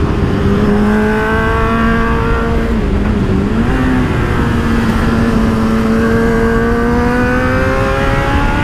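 Kawasaki Z800's inline-four engine pulling at steady revs under light throttle through a bend, with an aftermarket exhaust fitted with its dB killer, over heavy wind rush. The revs dip briefly and pick up again about three seconds in, then rise slowly near the end.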